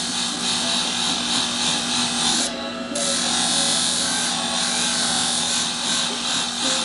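Electric sharpening machine running with a steady motor hum while a Japanese-style shear blade is ground on it, a steady high grinding hiss of steel on the abrasive. The grinding drops out briefly about two and a half seconds in, then resumes.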